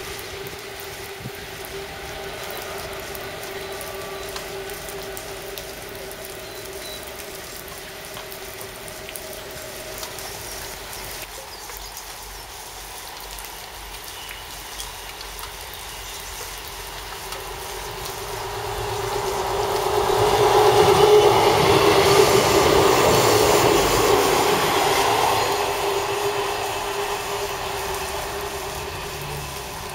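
A Class 66 diesel locomotive drawing away round a curve, its engine sound steady and fading. Then a South West Trains diesel multiple unit approaches, its engine and wheels growing louder to a peak about two-thirds of the way through and easing a little near the end.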